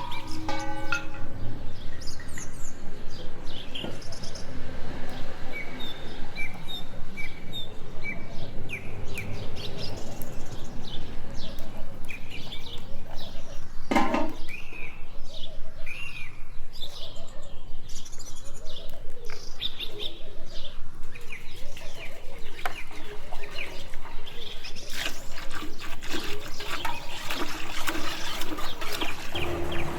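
Birds chirping, many short calls overlapping, with a run of evenly repeated notes a few seconds in.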